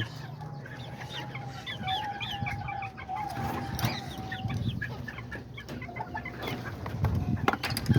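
Bantam chickens clucking and a rooster crowing in one long drawn-out call, with small birds chirping over them. A few sharp clicks come near the end.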